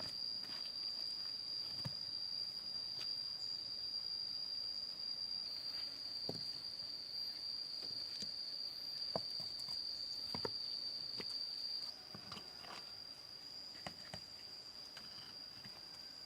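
Steady high-pitched insect trill from the surrounding jungle, with a few scattered light knocks and taps.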